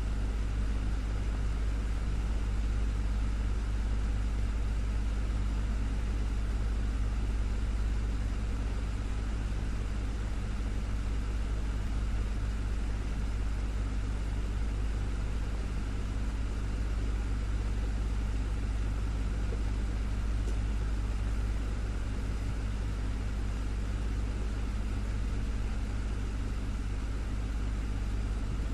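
Desktop fan running steadily: a constant low motor hum with a few steady tones under an even airy hiss.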